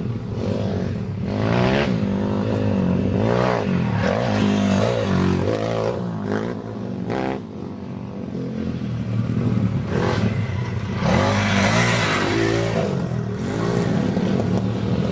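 Dirt bike engine revving up and down again and again as it is ridden, its pitch rising and dropping every second or so.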